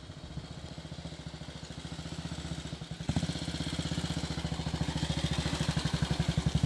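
1943 Matchless G3L's 350 cc single-cylinder four-stroke engine running as the motorcycle approaches, its even firing beat growing louder, with a jump in level about three seconds in.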